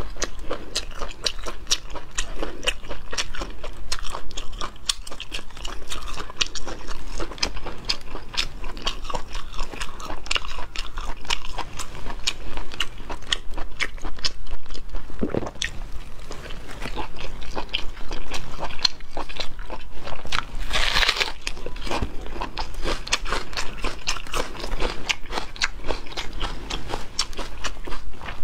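Close-miked eating: a person biting and chewing braised meat, a steady run of wet clicking and crunchy mouth sounds, with one longer, louder noisy stretch about two-thirds of the way through.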